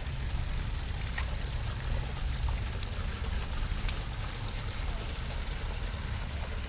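Steady rush of running water, with a low rumble beneath it.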